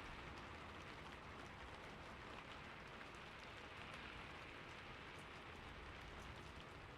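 Faint, steady rainfall: an even hiss with light, scattered drop ticks.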